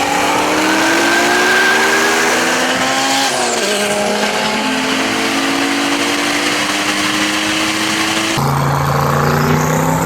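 High-horsepower race car engine accelerating hard under full throttle, its pitch climbing steadily, dropping sharply at a gear change about three seconds in, then climbing again. The sound changes abruptly about eight seconds in.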